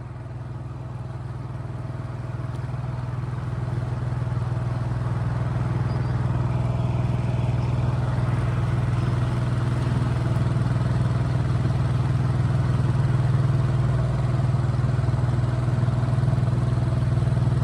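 Small outboard boat motor running steadily with an even hum. It gets louder over the first few seconds, then holds steady.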